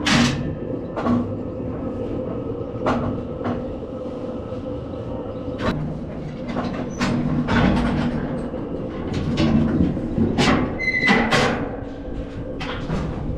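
Repeated loud metal clanks and rattles, a dozen or so irregular bangs, one ringing briefly about eleven seconds in, over a steady mechanical hum.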